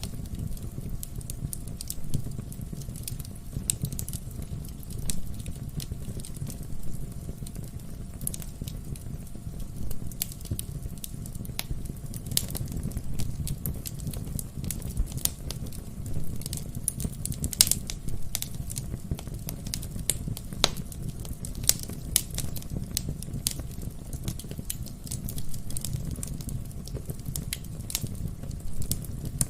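Wood fire burning in a fireplace: a steady low rumble of flame with frequent irregular crackles and occasional sharper pops from the burning logs.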